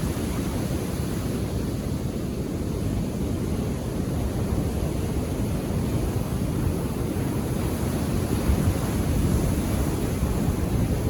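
Indian Ocean surf washing onto a beach: a steady low rush of waves that swells slightly about eight seconds in.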